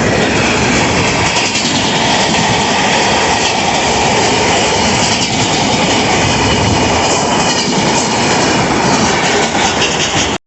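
Indian Railways train running at speed on the tracks: a loud, steady rush of wheel and rail noise with clickety-clack, cutting off abruptly at the end.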